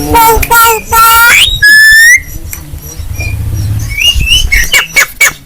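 Javan myna calling: loud pitched whistles and squawky rising calls, ending in a held whistle about two seconds in, then a fast run of sharp clicking chatter near the end.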